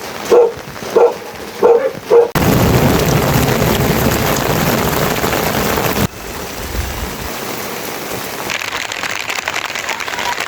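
Heavy rain pouring down, coming in suddenly a little over two seconds in and dropping abruptly to a lighter, steady rain about six seconds in. Before it, four short loud calls, about two-thirds of a second apart.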